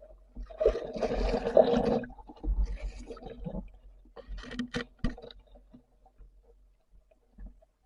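Water sloshing and gurgling in three short bursts, the last with a few sharp clicks about five seconds in, then mostly quiet.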